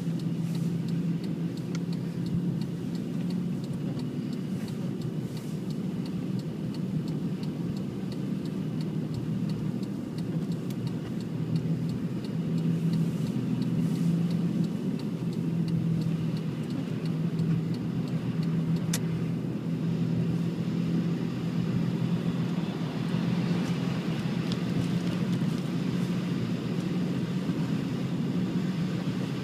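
A car running steadily, with an even low engine hum and road noise and no change in pace.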